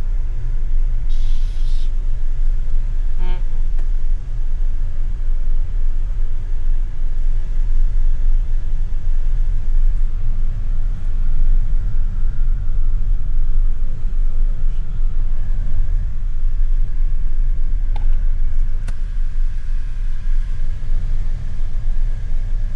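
Steady low rumble of a Jetour T2 SUV on the move, road and engine noise, with a brief hiss about a second in.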